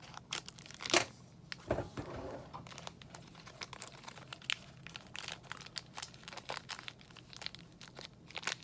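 Granola bar wrapper being crinkled and torn open: a run of sharp crackles and rustles, the loudest about a second in.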